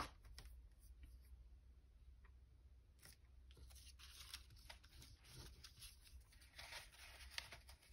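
Faint rustling and light handling of sheets of craft paper, over a low steady hum.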